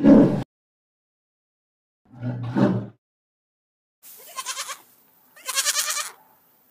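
A deep growl, loudest at the very start and heard again briefly about two seconds in, then lambs bleating twice, a wavering call about four seconds in and a louder one about a second later.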